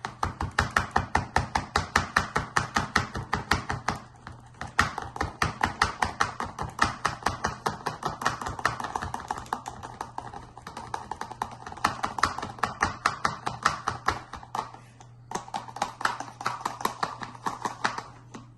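Baking soda being shaken inside an empty bottle: a fast rhythmic rattling, about five to six shakes a second, with short breaks about four seconds in and near fifteen seconds.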